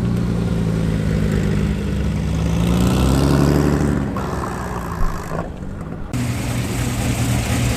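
Car engines running, one revving up and dropping back about three seconds in; the sound changes abruptly a few times after that.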